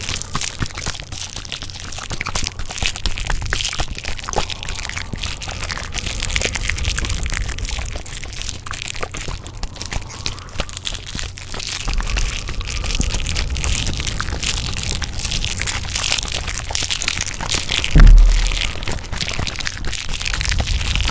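Dense layered crackling and crunching, a steady stream of small crisp clicks, with a deep low thump about 18 seconds in that is the loudest moment.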